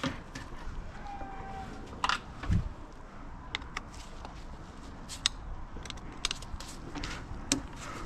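Scattered light metallic clicks and clinks of tools and engine parts being handled during an engine teardown, with one duller knock about two and a half seconds in.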